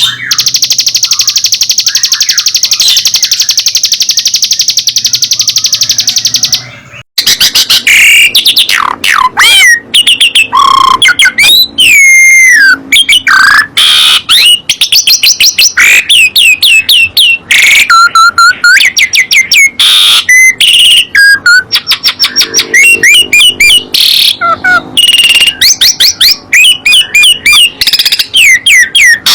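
Songbird song: a fast, buzzing trill for about the first seven seconds, then a busy run of varied loud whistles, sliding notes and chirps.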